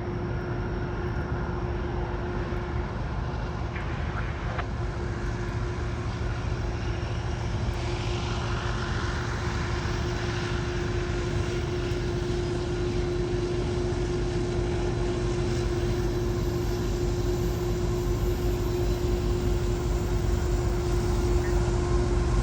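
GO Transit commuter train's diesel locomotive accelerating away on departure, a steady engine drone with a constant hum that slowly grows louder.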